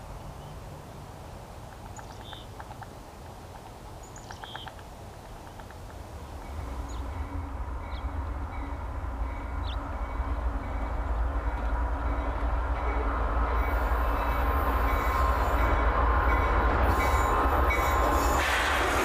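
A train approaching, its low rumble and rail hum growing steadily louder from about six seconds in. A few faint short chirps sound earlier, before the rumble builds.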